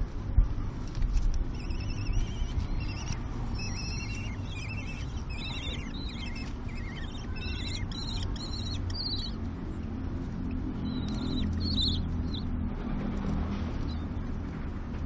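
Common kestrels calling: a rapid run of repeated high-pitched calls lasting several seconds, then a few more about eleven seconds in. A steady low rumble of road traffic runs underneath.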